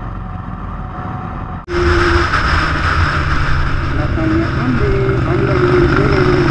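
Big motorcycle engines running with a steady low drone. About a second and a half in it cuts abruptly to louder running with a rush of wind noise and faint voices over it.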